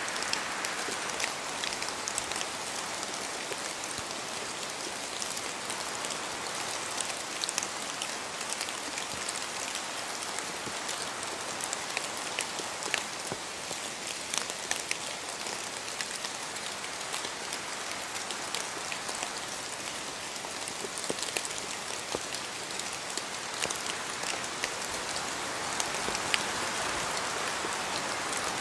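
Steady rain falling on forest foliage, with many individual drops ticking sharply through the constant hiss of the rain; the rain swells a little at the start and again near the end.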